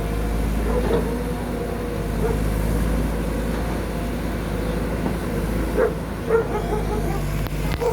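Backhoe excavator's diesel engine running steadily, with a few short faint sounds on top of it about a second in and near the end.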